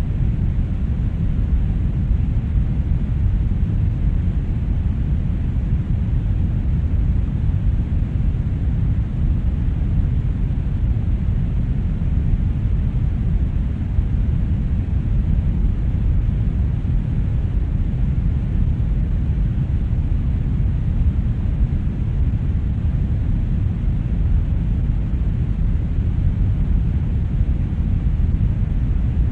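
Steady brown noise: a deep, even rumbling hiss, heaviest in the bass and thinning out toward the highs, with no change or pattern.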